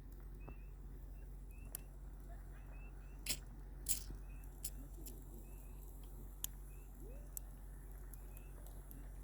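Wood campfire crackling: scattered sharp pops and snaps of burning wood, the two loudest a little after the middle.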